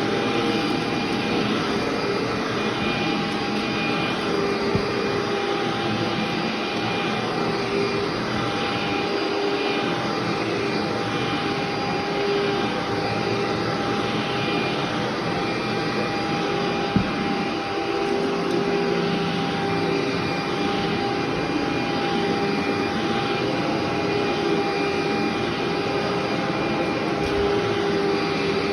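Vacuum cleaner running steadily on carpet, a constant motor whine with a faint rise and fall every couple of seconds. There is a single sharp click about 17 seconds in.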